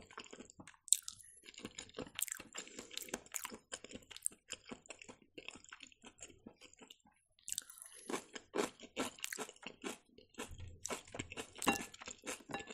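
Close-miked chewing of fried mushrooms: many quick wet clicks and crackles. After a short pause about six seconds in, louder crunching bites of kimchi cabbage.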